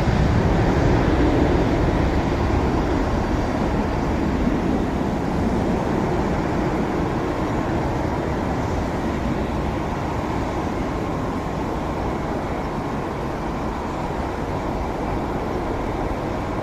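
Boeing 737-700's CFM56-7B turbofan engines at takeoff thrust, a steady deep jet rumble with a faint high whine early on, slowly fading as the airliner climbs away.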